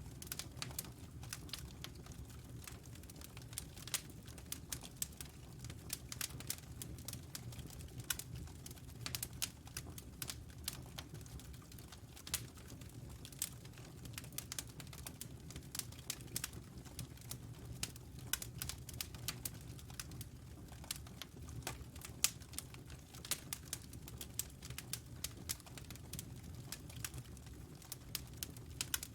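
Wood fire in a fireplace crackling: a dense, irregular run of sharp pops and snaps over a steady low rumble of burning.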